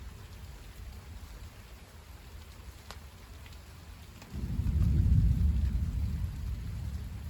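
Rain falling steadily, with a peal of thunder about four seconds in: a deep rumble that starts suddenly, peaks within a second and fades over the next two or three seconds.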